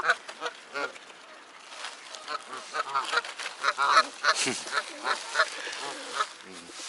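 A flock of waterfowl calling close by: many short calls overlapping, thicker from about two seconds in.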